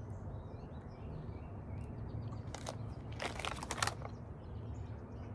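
Chewing a chocolate pecan cluster, with a few sharp crunches about two and a half and three and a half seconds in. Faint birds chirp in the background over a steady low outdoor rumble.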